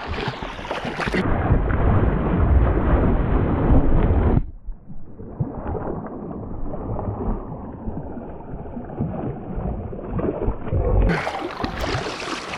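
Creek water splashing and churning as a person slips and falls on the rocks, with heavy low rumbling in the first few seconds. Muffled from about a second in until near the end.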